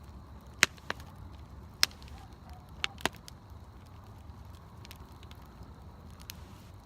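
Campfire burning, its wood crackling with faint ticks and five sharp pops within the first three seconds, over a steady low rumble.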